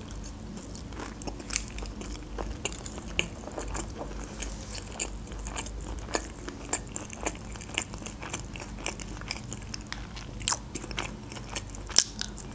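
Close-miked chewing of a mouthful of sushi roll: a steady run of small wet clicks and crunches, with a few sharper crunches, one early on and two near the end.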